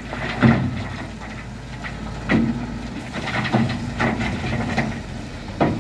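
Diesel engine of heavy road-building machinery running steadily, with several short, louder sounds about a second apart.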